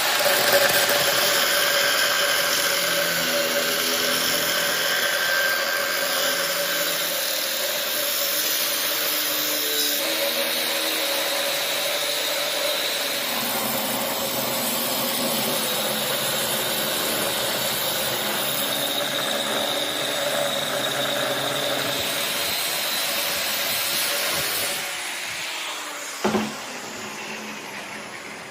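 An electric power tool running steadily as it works on steel, with a held squealing tone. It fades out near the end and is followed by a single knock.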